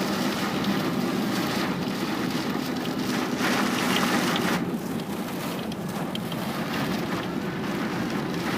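Heavy rain beating on a moving car, heard from inside the cabin as a steady dense patter over a low road rumble.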